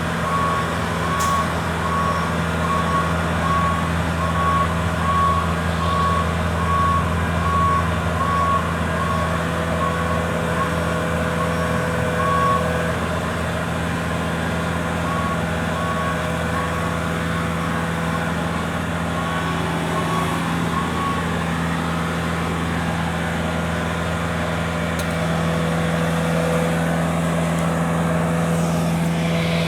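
Aerial lift raising, its motion alarm beeping about once a second over a steady engine hum. The beeping pauses briefly past the middle and stops about two-thirds of the way through, while the engine runs on and grows a little louder near the end.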